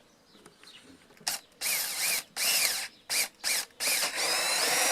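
Electric drill squeezed on in short bursts, its motor speeding up and slowing down each time, then held on and running steadily near the end.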